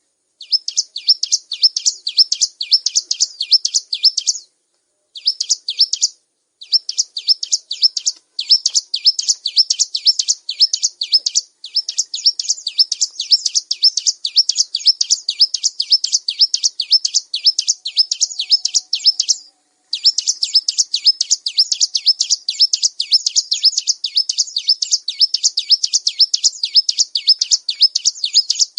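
Bar-winged prinia singing: long runs of quick, high, down-slurred chipping notes, about five a second, broken by a few brief pauses.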